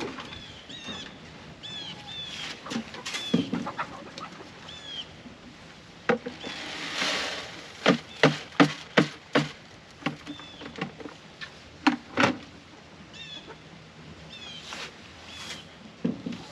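Birds chirping, short high calls repeating every second or so. A run of sharp wooden knocks and clatter comes in the middle, with a couple more knocks later.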